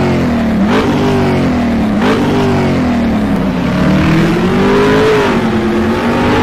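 Car engine accelerating hard through the gears. Its pitch climbs and drops back at each upshift, twice in the first two seconds, then makes a longer climb that peaks about five seconds in and eases off.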